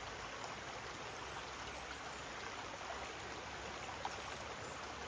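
A shallow mountain stream running steadily over rocks, an even rushing and trickling with the water lower than usual after a dry spell.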